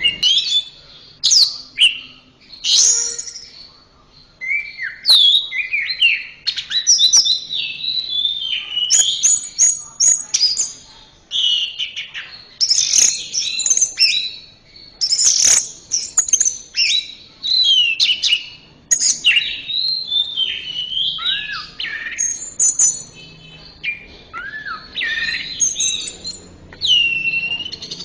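Orange-headed thrush (anis merah) singing a long, varied song: quick phrases of sliding, whistled notes, some rising and some falling, with short pauses between phrases.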